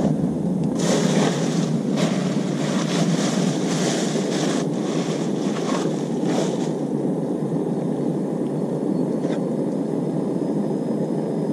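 Steady wind noise on the microphone, with a stretch of crackly, hissing noise from about one second in to about seven seconds in.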